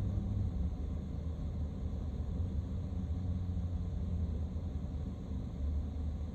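Steady low rumble of a car driving through city streets, heard as road and engine noise from inside the moving vehicle.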